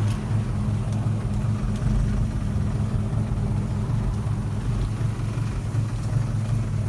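Toyota AE86's 4A-GE twin-cam four-cylinder engine idling steadily.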